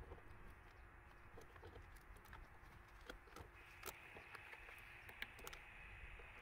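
Faint, irregular light clicks and ticks over a low background hum.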